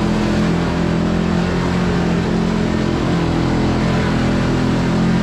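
Kawasaki Teryx KRX4 1000 side-by-side's parallel-twin engine running steadily under light throttle while the machine drives along a trail, with small rises and falls in engine speed and rolling noise from the tires and drivetrain.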